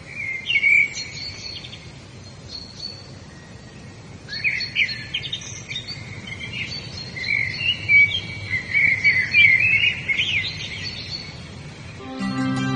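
Several songbirds chirping and singing in short, quick sliding phrases over a steady background hiss, busiest about a second in, around four to five seconds in and again from about seven to ten seconds. Soft instrumental music comes in near the end.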